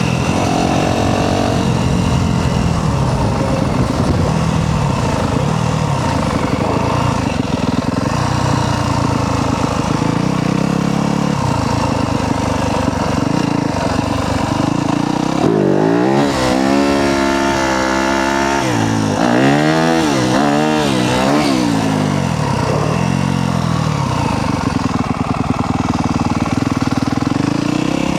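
Yamaha YZ250F dirt bike's single-cylinder four-stroke engine being ridden, its revs rising and falling. About halfway through comes a run of quick, sharp rev climbs and drops.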